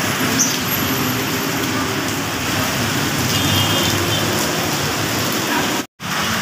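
Heavy rain pouring steadily, an even hiss of water hitting surfaces. The sound cuts out briefly near the end.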